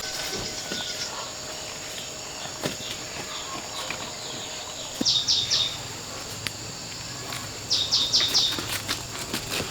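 Outdoor insect chorus: a steady high-pitched insect drone, with two short bursts of four or five rapid high chirps about five and eight seconds in.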